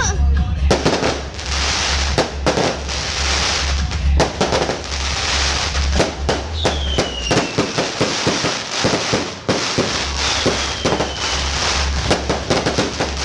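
Fireworks going off in quick succession: many sharp bangs, a dense run of rapid crackling about halfway through, and two short falling whistles.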